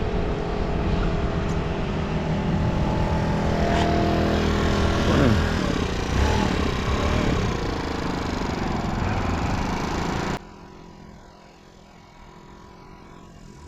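Steady road and traffic noise of cars on a wet road, heard from a moving bicycle. About ten seconds in it cuts off abruptly to a much quieter low hum.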